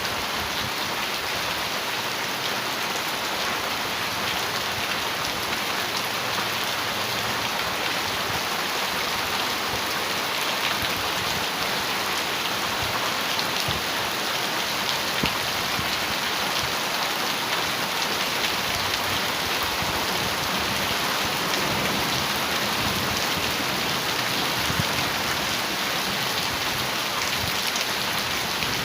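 Heavy rain on a metal roof: a steady dense hiss with scattered sharp drop ticks.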